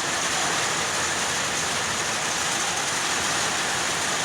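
Steady rush of heavy rain during a thunderstorm, an even hiss that holds constant.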